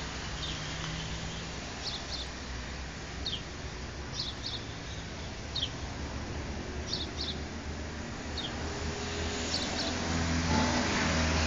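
A bird chirping repeatedly in short, falling notes, often two at a time, every second or two, over a steady low background rumble that grows louder near the end.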